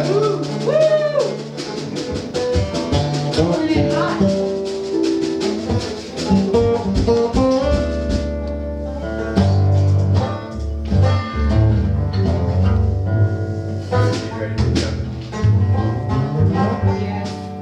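Acoustic bluegrass band playing, with fast picked string notes over guitar and a strong bass line.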